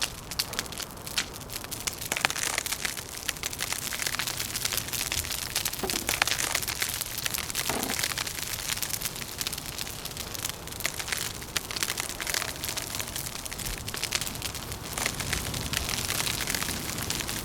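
Wood fire crackling, with many small irregular pops and snaps over a steady hiss.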